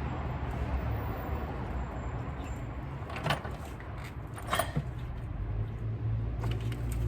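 A few sharp metallic clinks of hand tools on engine parts, during removal of the intake manifold from a Chevrolet 5.3-litre V8: one about three seconds in, a cluster around four and a half seconds, and one more at the end. A steady low hum runs underneath.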